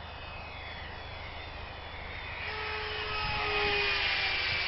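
Electric radio-controlled CZ Scimitar model aircraft flying past. The motor whine grows louder from about halfway through as a plane comes close.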